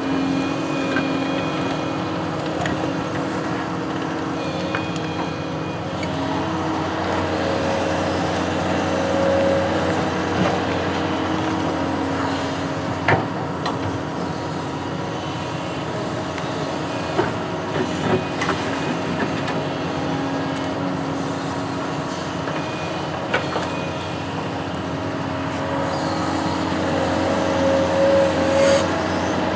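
Construction machine's engine running steadily, with a few sharp knocks or clanks along the way.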